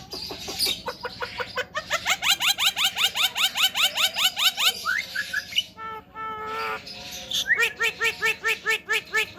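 Javan myna (jalak kebo) calling: a fast run of rising notes, about six a second. After a short break, a quick series of repeated arched notes follows near the end.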